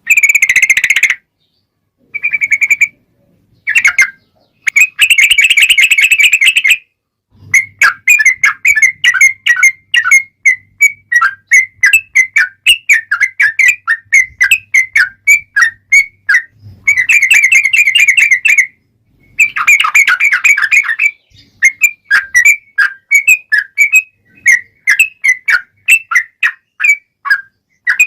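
Yellow-vented bulbul (trucukan) song: loud bursts of bubbling chatter, then from about a quarter of the way in a long run of rapid, quick-fire notes with two denser bursts in the middle. This is the long chattering 'ropel' song used as a lure to make other trucuk birds answer.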